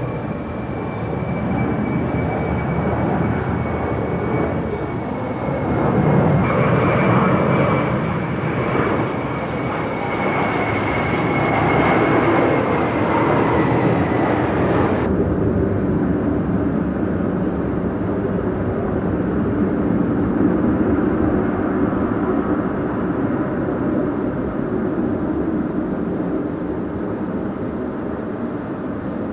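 Airliner engines running loud and steady, with a high whine that slowly falls in pitch. The upper part of the sound cuts off abruptly about halfway through, leaving a lower rumble.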